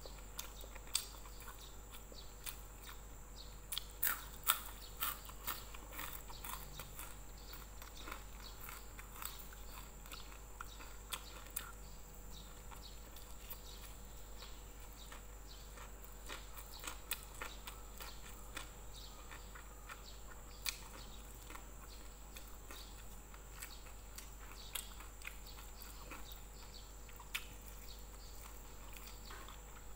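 Close-up chewing and biting of a hand-eaten rice meal with fried salted fish and anchovies: irregular crisp crunches and wet mouth clicks, busiest around four to five seconds in.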